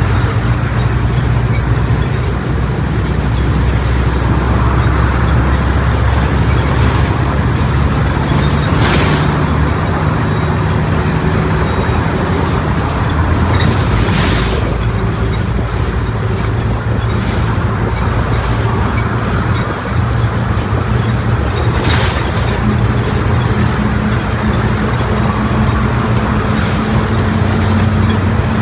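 Mercedes-Benz OF1722M bus under way: its diesel engine and rear differential run steadily, shifting in pitch partway through, with three short hisses.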